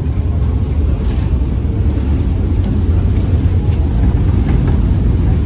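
Passenger ferry's engine running with a steady low rumble, under a haze of wind and water noise.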